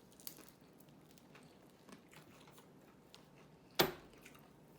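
Person chewing a taco close to the microphone: soft, scattered mouth clicks and smacks, with one sharp, loud click or crunch near the end.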